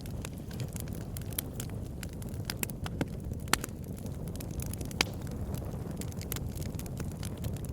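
Campfire burning with a steady low rumble and frequent sharp, irregular crackles and pops; two louder pops stand out, about three and a half and five seconds in.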